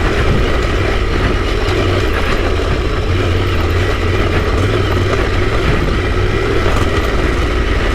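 Yamaha Tenere 700's 689 cc parallel-twin engine running steadily at low trail speed as the bike is ridden along a rough green lane.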